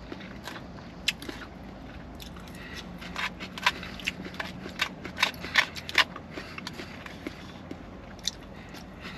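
A person chewing food close to the microphone: a run of wet mouth clicks and smacks, thickest from about three to six seconds in.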